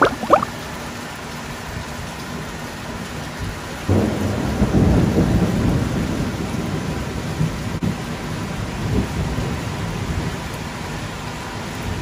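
Steady rain, with a roll of thunder that breaks in suddenly about four seconds in and rumbles low, slowly dying away over the following seconds.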